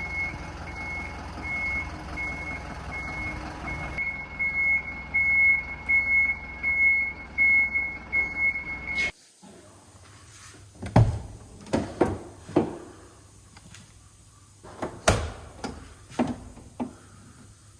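A vehicle reversing, its back-up beeper sounding about twice a second over the steady running of the engine. About halfway through, both stop suddenly and give way to a series of separate knocks and clunks.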